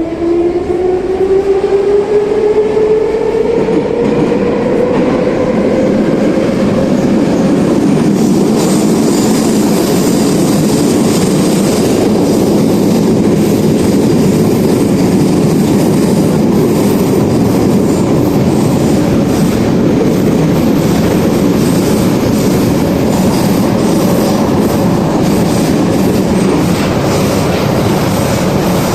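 An 81-717 metro car heard from inside as it accelerates. The traction motors' whine rises in pitch over the first several seconds, then gives way to the steady, loud rumble of the car running on the rails.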